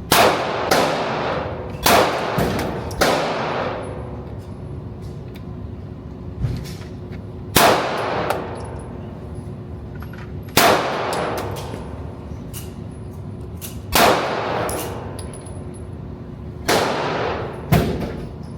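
Gunshots at a shooting range, about nine at irregular intervals, each with a long echoing tail. Two pairs come close together in the first three seconds, and another pair comes near the end.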